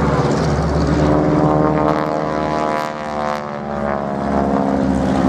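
Two Boeing Stearman biplanes' Pratt & Whitney radial engines and propellers droning through a formation loop. About three seconds in, the engine note drops in pitch and loudness, then comes back up.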